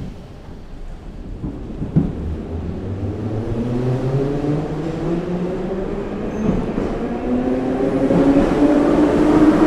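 Ezh3 metro train accelerating away from a station, heard from inside the car: the traction motors' whine climbs steadily in pitch and grows louder as speed builds. A knock comes at the start and another about two seconds in.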